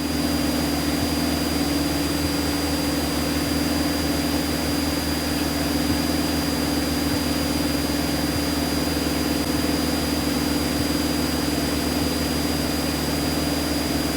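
Light aircraft's piston engine idling steadily, heard from inside the cockpit, with a thin high whine above it.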